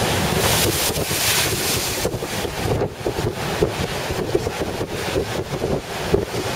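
Storm wind buffeting the microphone over heavy ocean surf. A louder hissing rush fills the first two seconds, then eases.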